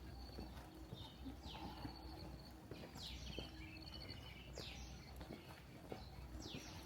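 A bird repeating a short down-slurred call about every one and a half seconds, with light clicks underneath.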